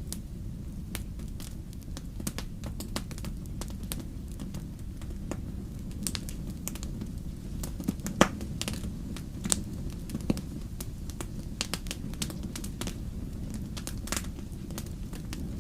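Wood fire crackling: irregular sharp pops and snaps over a steady low rumble, with one louder pop about eight seconds in.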